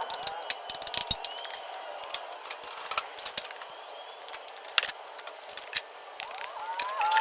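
Scattered clicks, knocks and clatters of tools and objects being handled and moved around, with a few short squeaky gliding tones near the end.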